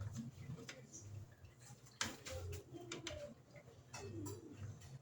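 Electrolux LED14 top-loading washing machine agitating: a low motor hum that swells and stops about once a second as the agitator turns one way and then back, with light clicks and knocks from the drum.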